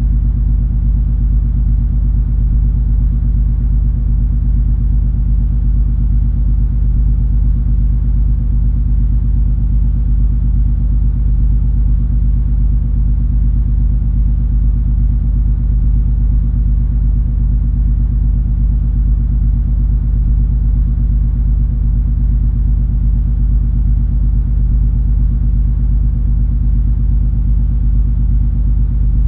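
Steady low drone of the cruise ferry MS Color Fantasy under way: its engines and machinery give a constant deep rumble with a steady hum.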